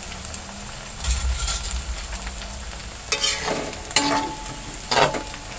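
Tempeh frying in oil in a wok, a steady sizzle, with a metal spatula scraping and knocking against the wok several times in the second half.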